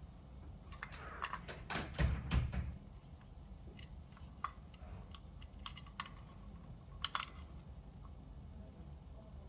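Clicks and knocks of small hard parts being handled: a cluster of clattering with a low thump about two seconds in, then scattered single clicks.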